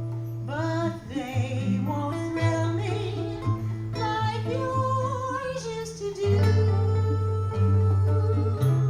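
Small live jazz combo playing a standard, with guitar. A melodic lead line slides and moves over sustained low notes that change about once a second.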